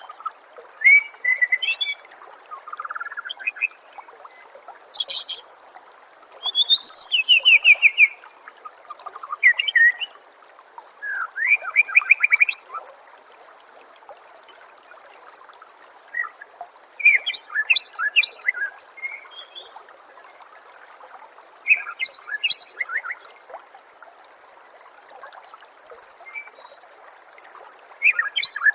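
White-rumped shama (murai batu) singing in bursts of varied whistled phrases and quick runs of notes, with pauses of a few seconds between them. A steady trickle of water runs underneath.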